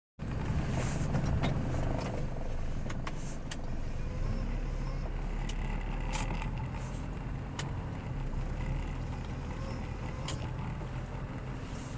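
Steady low rumble of motor vehicles in city traffic, with a few sharp clicks scattered through.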